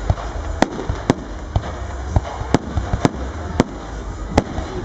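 Fireworks display: a rapid, irregular run of sharp bangs, about nine in under five seconds, over a steady low rumble.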